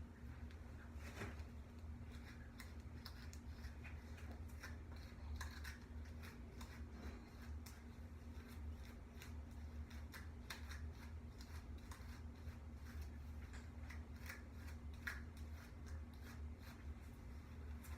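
A comb raked through untwisted hair, giving faint, irregular scratchy strokes over a steady low hum.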